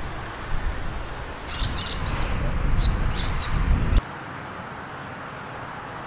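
A small bird chirping in two short bursts of quick high notes over outdoor wind rumble on the microphone. At about four seconds the rumble cuts off suddenly, leaving a quieter steady hiss.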